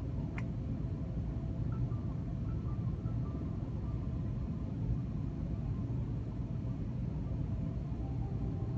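Steady low rumble of an airliner cabin while the plane taxis after landing, with one sharp click about half a second in.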